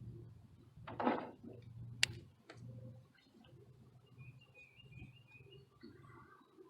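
Handling noise: a brief rustle about a second in, then a sharp click and a fainter second click. Faint bird chirps follow.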